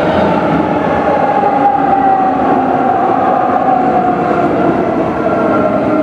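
A train running close by on the rails, a loud steady rumble with a whine that sinks slowly in pitch.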